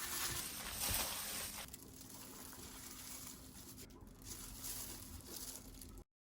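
Soft rustling and light tapping handling noises, louder for the first second and a half, then quieter, ending in a sudden cut to silence.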